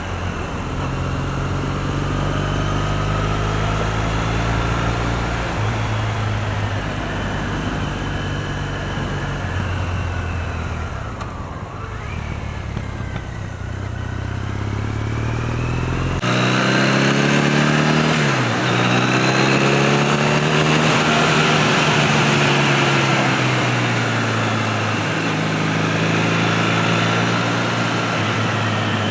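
2008 Triumph Bonneville's parallel-twin engine running under way, with wind noise; the engine note falls and rises with the road, dipping sharply and climbing again about two-thirds of the way through.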